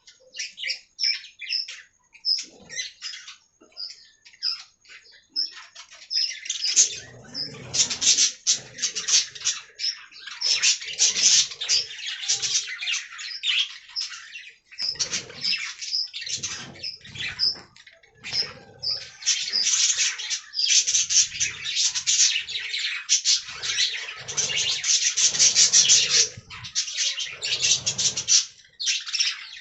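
Budgerigars chattering: quick, high chirps and warbles, scattered at first and thickening after a few seconds into near-continuous chatter.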